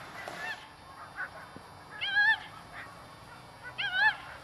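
Two short, wavering, honk-like animal calls about a second and a half apart, each rising and falling in pitch, with a fainter one just before them.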